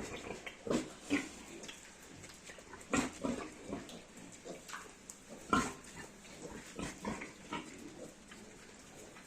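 Piglet grunting in short, irregular bursts, the loudest grunts about three and five and a half seconds in.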